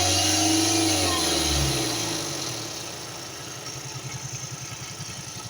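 Hyundai Creta engine running above idle; its revs drop away about one and a half seconds in. It then settles into a quieter idle with an even low pulsing.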